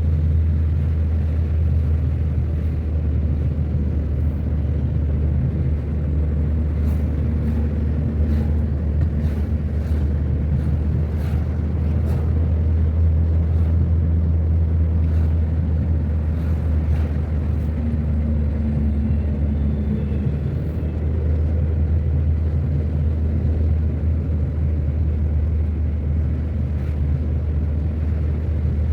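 Car driving along a road: a steady low rumble of engine and tyre noise, with scattered faint ticks.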